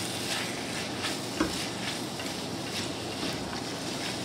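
Diced vegetables and tomatoes sizzling in a stainless steel pan while a spatula stirs them, with short scraping strokes against the pan. A single sharp knock about one and a half seconds in.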